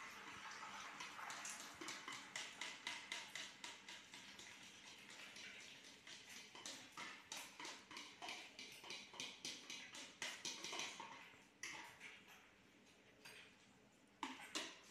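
Beaten eggs sizzling in hot oil in a wok, with a metal spatula scraping and tapping the pan in quick repeated strokes, about three a second at first and then more irregular. Two louder knocks come near the end.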